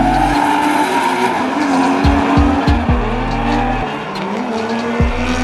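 Cars drifting: engines revving hard with tyres squealing and skidding, wavering in pitch, over the deep bass line of a rap track.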